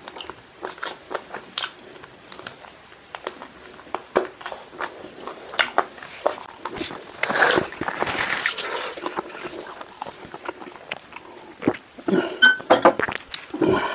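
Close-up eating sounds of spicy chicken wings being bitten and chewed: wet smacking with many sharp mouth clicks, a longer rushing noise about halfway through, and a cluster of louder bites near the end.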